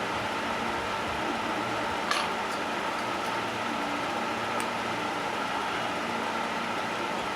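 Steady mechanical hum with a constant whir, with a sharp click about two seconds in and a fainter click a little past the middle.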